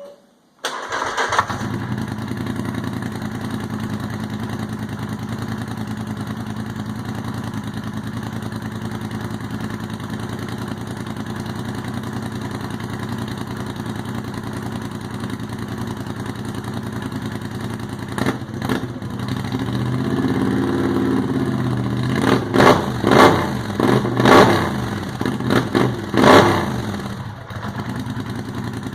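A 2013 Polaris Scrambler 850 ATV's parallel-twin engine, with a ported head and a custom stainless exhaust, starting within the first second and settling into a steady idle. It is blipped once about two-thirds of the way through, then revved sharply about half a dozen times before dropping back to idle. The exhaust has a deep tone and is a little loud.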